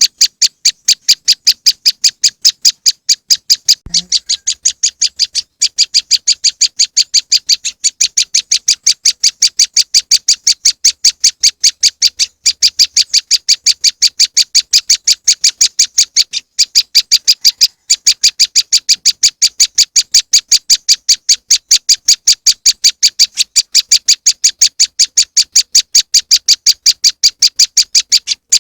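Prenjak lumut bird-lure recording: a fast, unbroken run of short, sharp, high chirps, about four a second, with a few brief pauses.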